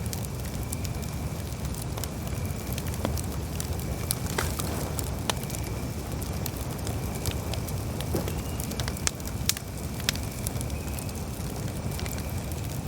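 Campfire burning: a steady low rumble of the fire with many irregular sharp crackles and pops from the burning wood.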